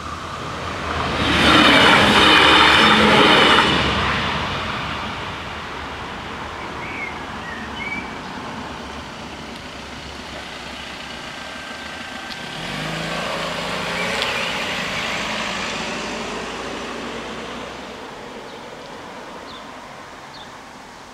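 Alstom LINT 54 diesel multiple unit passing over the level crossing: a loud rush of running and wheel noise for about three seconds, starting about a second in. Later a lower hum rises for several seconds and fades as the crossing barriers lift.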